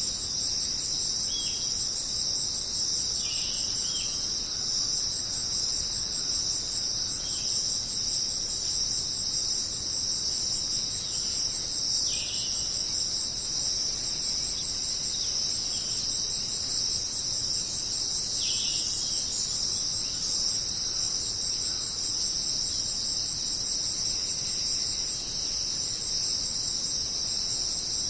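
A dense chorus of jungle insects, crickets among them, keeps up a steady, unbroken high-pitched buzz. A few short falling chirps sound over it at intervals of several seconds.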